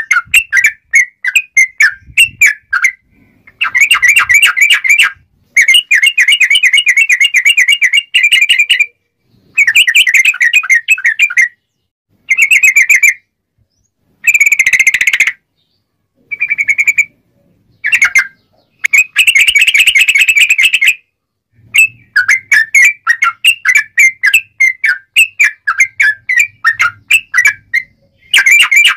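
Yellow-vented bulbul (trucuk) singing loudly in the lively 'ngobra' style: rapid, clear chattering phrases of one to two seconds, with short pauses and scattered single notes between them.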